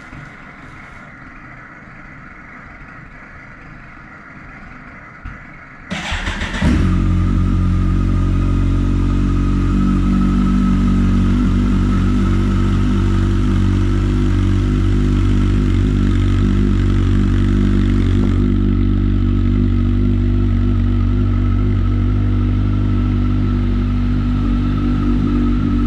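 Kawasaki ZX-14R inline-four through a Two Brothers slip-on exhaust (stock headers with catalyser) cranked and started about six seconds in, then idling steadily and loudly.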